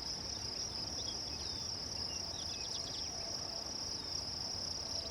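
Steady, high-pitched trilling of insects in the prairie grass, with faint short chirps over it and a low rumble underneath.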